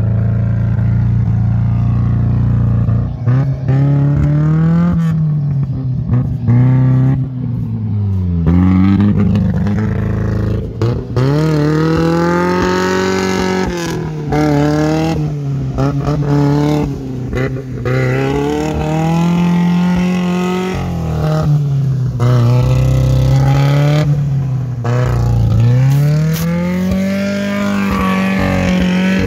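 First-generation Kia Sportage SUV engine under load climbing through snow. It runs steadily for a few seconds, then is revved up and eased off again and again, its pitch rising and falling every two to three seconds.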